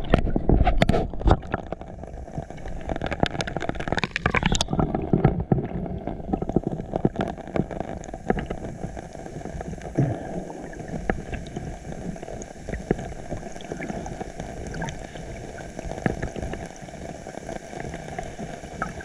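Ocean water splashing and sloshing close to the microphone as a swimmer strokes through the sea. It is choppy and loud for the first few seconds, then settles into a steadier wash of water noise.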